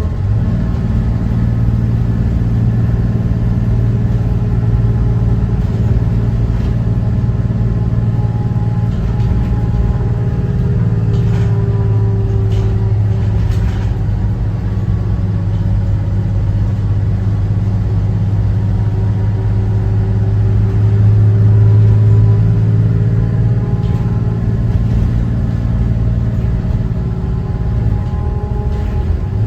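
Cummins ISB 6.7 inline-six turbo-diesel of a 2014 Thomas Saf-T-Liner C2 school bus running on the road, its pitch rising and falling slowly with the engine speed, loudest about two-thirds of the way through. A few brief rattles come near the middle.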